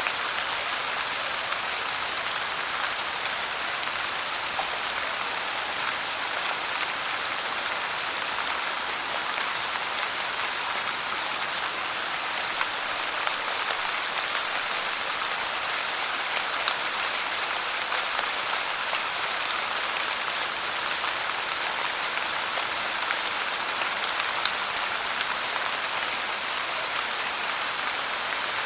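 Steady pouring rain, an even hiss with scattered individual drops ticking through it, unchanging throughout.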